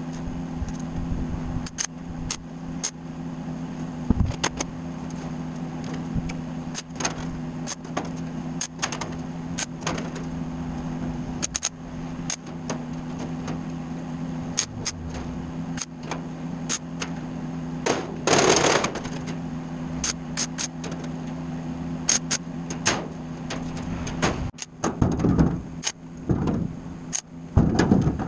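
A steady low machine hum with scattered sharp clicks and knocks. A short hiss of about a second comes roughly two-thirds of the way through, and duller thuds follow near the end.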